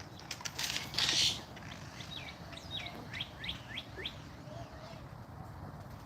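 A bird chirping: a quick run of about eight short, falling chirps, with a brief hiss just before.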